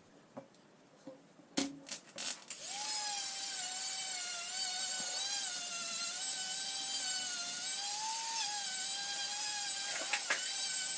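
A small electric rotary tool polishing a watch's steel parts: a few handling clicks, then about two and a half seconds in the motor starts and runs with a steady high whine whose pitch sags and recovers slightly as it is pressed against the work.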